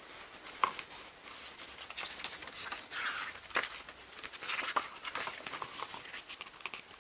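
Glossy photobook pages being turned and handled: irregular paper swishes and rustles with small sharp clicks and taps.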